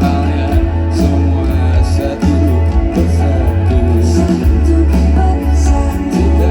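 Live pop-rock band playing loud at a concert, with heavy bass, a steady drum beat and guitar, and some singing in the mix, as picked up by a phone's microphone in the audience.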